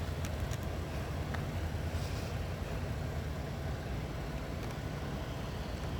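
Diesel locomotive engine idling in a rail yard: a steady, even low rumble.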